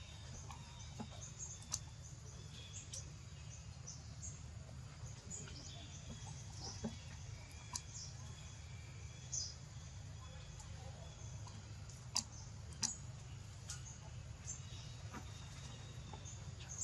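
Birds chirping: scattered short, high chirps, with a few sharp clicks, over a steady low rumble.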